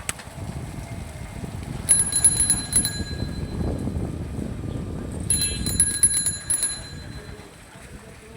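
Bicycle bell rung in two rapid trills, about two seconds in and again about five seconds in, over a steady low rumble from the ride.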